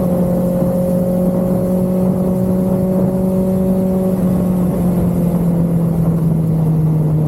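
Motorcycle engine running steadily at an even speed, its pitch easing slightly lower in the last couple of seconds.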